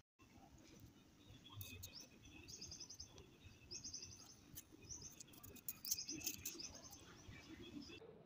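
Small birds chirping faintly in short, rapid high trills several times, over a low background hum, with a few light clicks.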